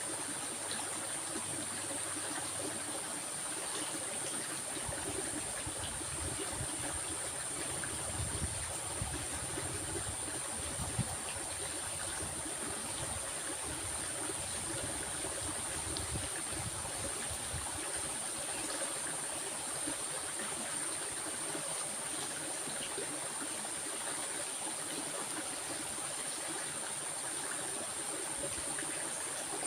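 Stream water flowing in a steady, even rush, with a steady high-pitched tone above it.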